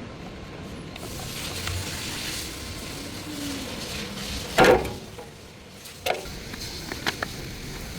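Tools and parts handled during an oil filter change, with a loud knock just past halfway and a few sharp clicks after it.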